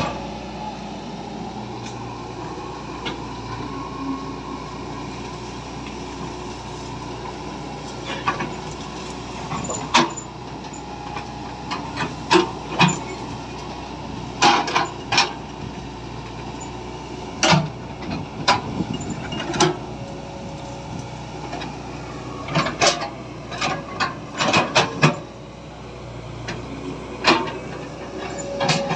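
Hard toy pieces clicking and knocking, singly and in quick clusters, over a steady hum.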